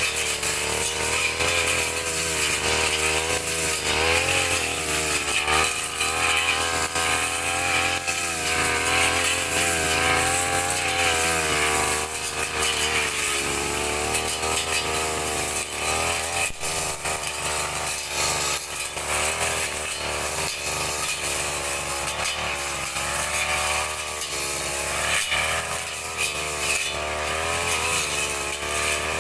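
Two-stroke brush cutter (grass-cutting machine) engine running without a break, its pitch wavering up and down as the throttle and cutting load change.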